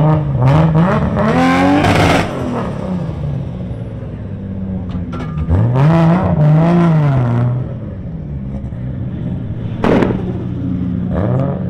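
Car engines revving hard, pitch climbing and falling twice over a steady low engine drone, with one sharp bang about ten seconds in.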